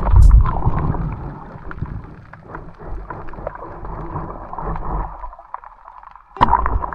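Muffled water sloshing and gurgling with small knocks. It drops away about five seconds in and comes back suddenly a second later.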